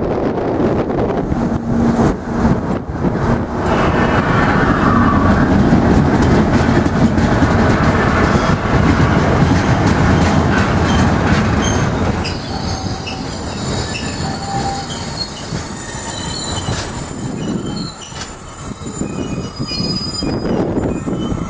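Class 60 diesel locomotive passing close by at the head of a freight train of hopper wagons: the locomotive's engine goes past first, then the wagons rumble steadily over the rails. From about halfway through there is a high-pitched squeal from the wagon wheels.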